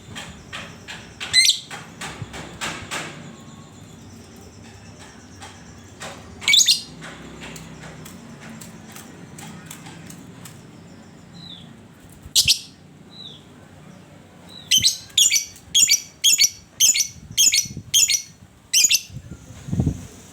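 Lovebird calling with sharp, high shrieks: single calls a second or so in, about six seconds in and about twelve seconds in, then a run of about eight in quick succession, roughly two a second, near the end.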